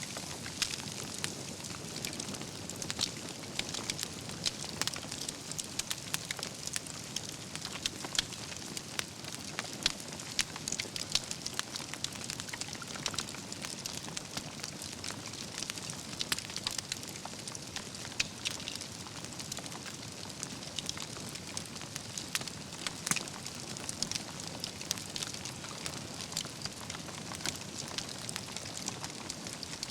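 Wood campfire burning, with a steady hiss under dense, irregular crackling and popping of logs and embers.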